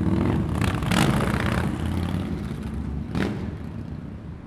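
Harley-Davidson motorcycle accelerating away, its engine loudest for the first couple of seconds and then fading. A brief clack sounds about three seconds in.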